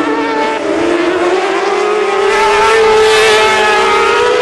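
Racing sport bike engines at high revs, their pitch rising slowly and loudest about three seconds in as they pass.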